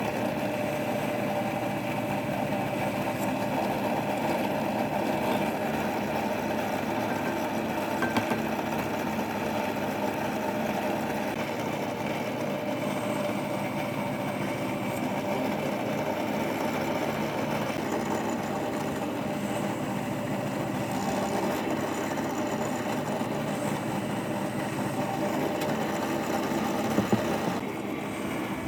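Restored vintage drill press running steadily on its electric motor, with a short knock about eight seconds in and a sharper double knock near the end.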